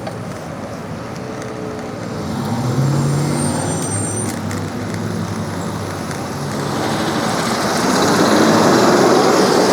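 Road traffic heard from a bicycle: a passing vehicle's engine hum swells about three seconds in, and a louder rush of traffic noise builds over the last few seconds.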